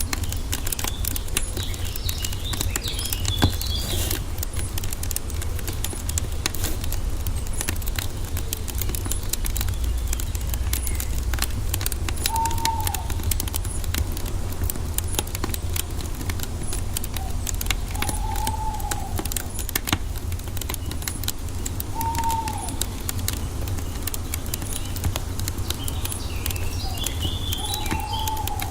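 Wood fire crackling with many small pops over a low steady rumble, with birds calling: bursts of high twittering chirps a few seconds in and again near the end, and four short arched notes spread through the second half.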